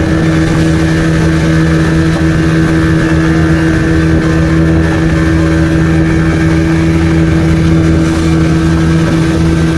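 Motorboat engine running at a steady speed, a loud constant drone that holds one pitch throughout, with a rushing hiss over it.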